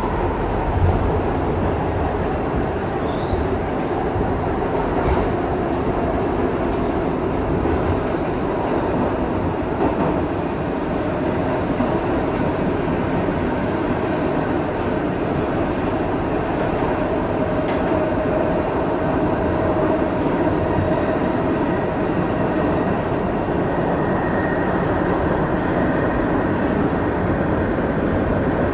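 Kawasaki R62 subway train running steadily along the track, a continuous rumble of wheels on rail with no stops or sharp events; a faint steady tone comes in around the middle.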